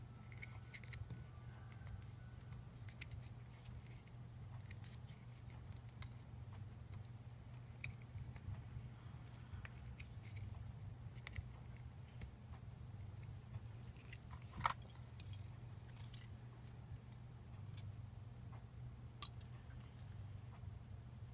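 Scattered small clicks and taps of a replica lightsaber's parts being handled and worked apart, with one sharper click about two thirds of the way through, over a steady low hum.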